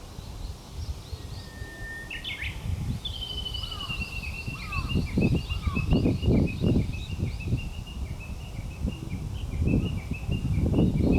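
Japanese bush warbler singing: one long held whistle ending in a quick flourish about two seconds in, then a long run of rapidly repeated notes slowly falling in pitch. Fainter chirps sound behind it, and bursts of low rumbling noise come in about halfway and again near the end.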